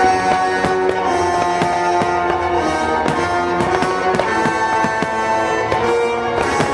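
Aerial fireworks bursting over sustained music: many sharp bangs and crackles throughout, thickening toward the end.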